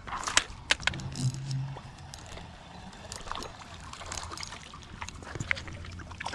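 River water running steadily, with scattered sharp clicks and knocks from a trout being played and landed.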